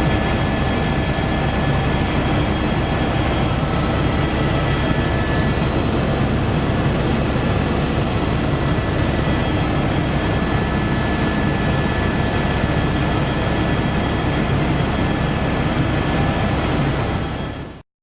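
Helicopter in flight: steady engine and rotor noise with several constant high tones over it, which cuts off abruptly near the end.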